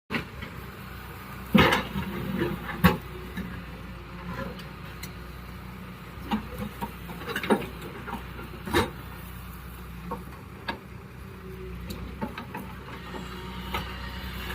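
Hyundai 210 crawler excavator's diesel engine running steadily, with sharp knocks and clanks now and then, the loudest about a second and a half in and near three seconds in.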